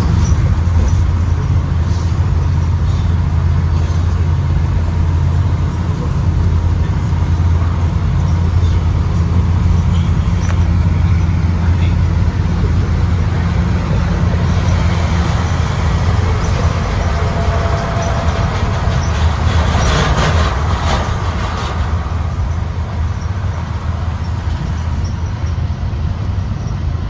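Blue Bird Vision school bus droning steadily on the move, its engine note low and even under road noise. A short patch of rattling comes about twenty seconds in.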